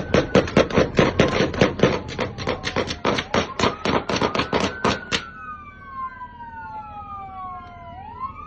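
A rapid volley of gunshots, about six a second from several guns at once, as police open fire on a truck; it stops suddenly about five seconds in. Several police sirens wail underneath and go on alone after the shooting.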